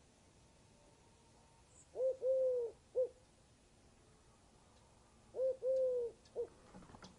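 A bird's call of three pitched notes, short, long, short, given twice about three seconds apart.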